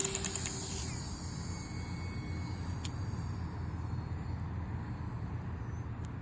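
Electric motor and 6x5.5 propeller of a Flite Test Mini Scout RC foam plane (Power Pack A) whining up to full throttle for takeoff. The whine is loudest at the start and fades over the next few seconds as the plane flies away.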